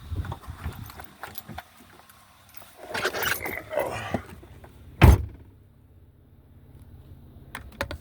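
Vehicle door opened and shut with one loud thump about five seconds in, after which the outside wind noise drops away to a muffled cabin hum. A few light clicks follow near the end.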